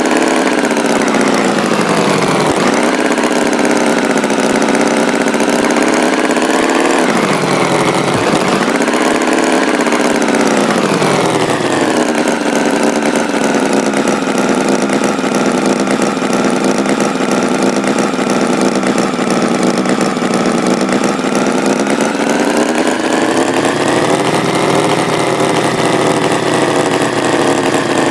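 Tractor engine sound effect running steadily, its pitch dropping and rising again a few times: a dip around eight seconds in, a fall to a lower steady run after about twelve seconds, then a rise and fall near the end.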